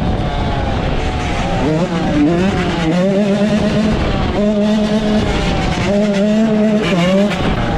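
Dirt bike engines revving hard: the pitch repeatedly climbs, then holds level for a moment before climbing again, as the bikes rev up and run through the gears, with some overlapping.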